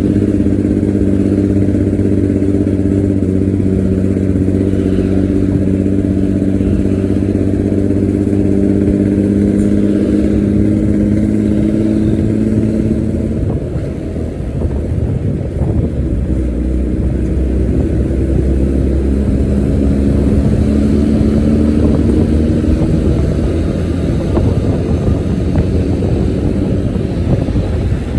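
A bus's diesel engine and exhaust with a deep, snoring growl, running steadily as the bus drives. The note sags slowly, breaks up with a brief drop in level about halfway through, then builds again.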